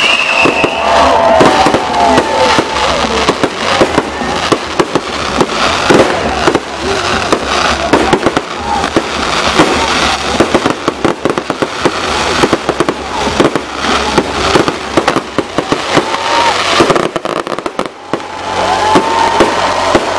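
Aerial fireworks display: a dense, continuous barrage of shell bursts, bangs and crackling, with many reports overlapping. The barrage thins briefly near the end before picking up again.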